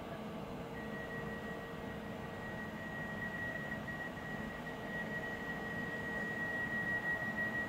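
Pesa Elf EN76 electric multiple unit approaching the station. A steady high-pitched whine starts about a second in and grows louder over a low running noise.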